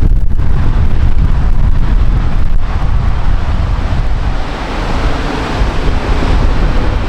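Strong wind buffeting the microphone, with a rushing hiss that swells through the middle and eases near the end.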